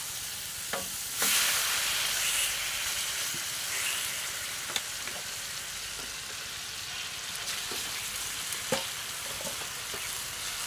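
Beef slices frying in butter in a large steel pan, a steady sizzle with a louder surge about a second in. A few sharp clicks come later.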